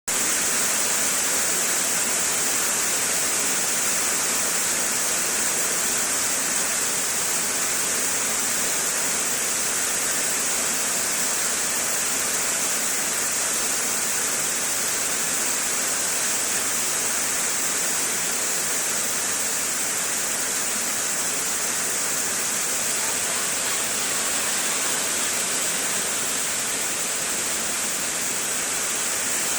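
Heavy rain falling in a steady, even hiss, brightest in the high treble, with no thunderclaps.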